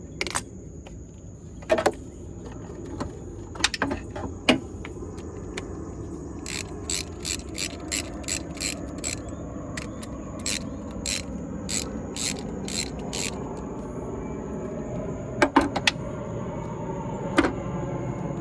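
Hand socket ratchet clicking on a battery terminal bolt: a regular run of about two or three clicks a second in the middle, with scattered sharper knocks of metal tools before and after.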